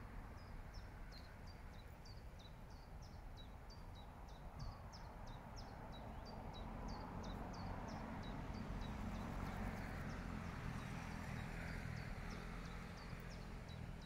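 A small bird repeats short, high, downward-slurred notes two or three times a second, over a faint low background rumble that grows a little louder in the second half.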